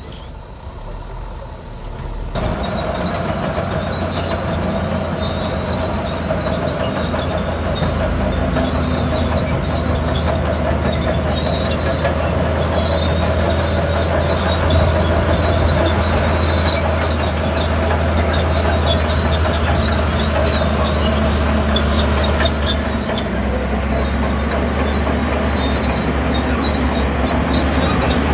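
Bulldozer's diesel engine working under load, with intermittent high metallic squeaks over the steady engine noise. It gets much louder about two seconds in.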